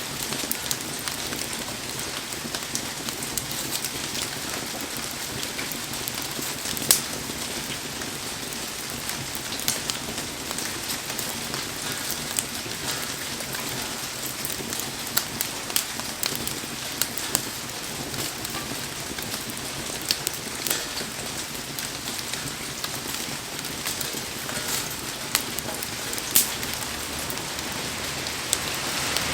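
Heavy rain falling steadily, with scattered sharp pops and ticks through it, the loudest about seven seconds in and again near the end.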